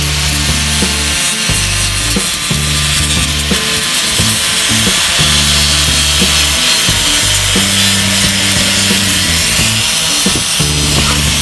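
Steady rasping hiss of an abrasive power tool working the car's bodywork, under background music with a low bass line that changes note about once a second.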